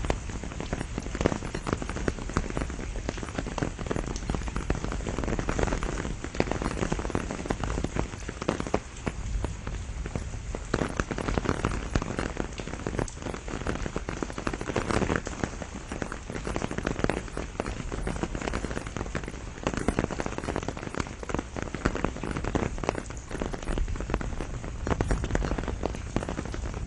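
Steady rain shower falling on a pomegranate tree's leaves, with dense close drop impacts.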